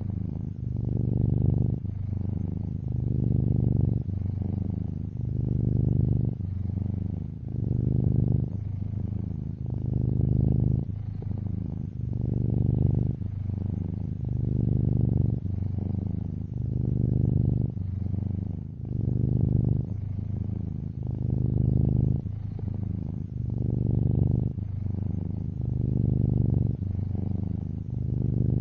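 Domestic cat purring steadily, the purr swelling and easing with each breath about every two seconds.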